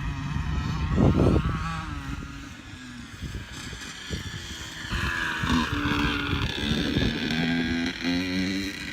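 A dirt bike's engine running at a distance, a steady hum that grows louder about halfway through. Wind buffets the microphone, with a loud gust about a second in.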